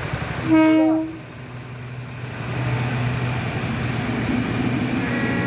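Goods train with an electric locomotive passing close by: a short horn blast about half a second in, then the steady rumble of the freight wagons rolling along the track.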